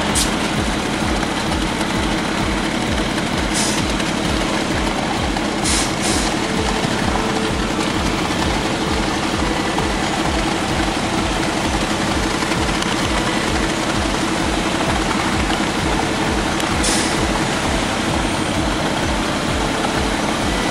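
A large engine running steadily with a regular low throb, with a few brief clicks over it.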